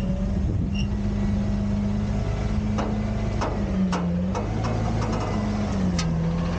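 Autocar/Heil Freedom half-pack garbage truck's diesel engine running steadily, its pitch stepping slightly up and down, with a few sharp metal clanks.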